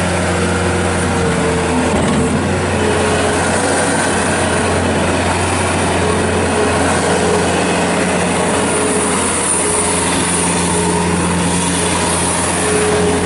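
Bobcat S185 skid steer loader's diesel engine running steadily, with a higher whine that comes and goes over the low engine hum.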